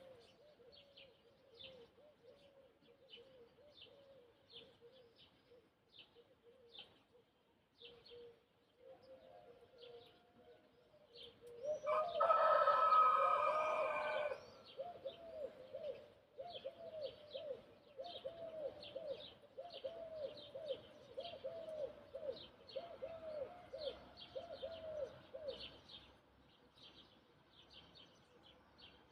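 A rooster crows once, loud, about twelve seconds in, lasting about two and a half seconds. Around it, small birds chirp on and off, and a low call repeats about twice a second for much of the time.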